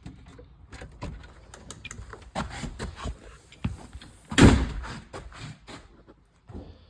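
A run of clicks, knocks and clatter, with one loud thump about four and a half seconds in.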